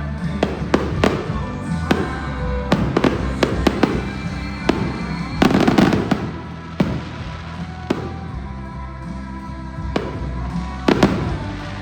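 Aerial fireworks going off in irregular bangs, a dense cluster of bursts about halfway through and another near the end, over music playing throughout.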